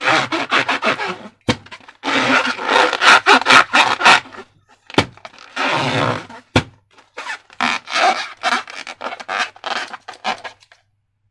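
Slime being squished and worked by hand: runs of quick wet, crackly squelches with short pauses. It stops shortly before the end.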